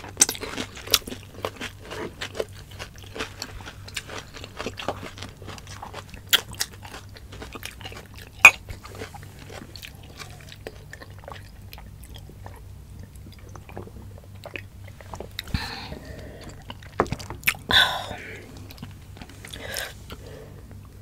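Close-miked mouth sounds of eating: chewing and biting with many small crisp clicks and crunches, thinning out in the middle and picking up again near the end.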